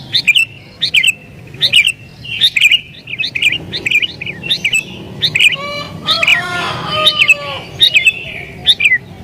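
Sooty-headed bulbul (kutilang) calling in excited, agitated full song: a fast run of short, sharp chirps, roughly two a second. About midway through comes a longer, lower, harsher chattering phrase.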